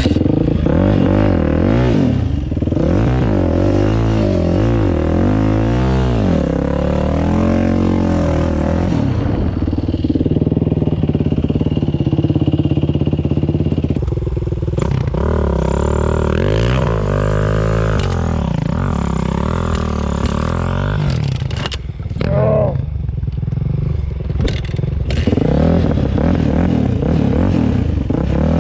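Dirt bike engine revving up and down again and again as it is ridden on a trail, with the throttle opening and closing many times, and a few sharp knocks past the middle.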